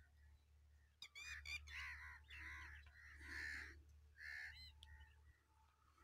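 Faint bird calls: a run of short, harsh caws from about a second in until about four and a half seconds in.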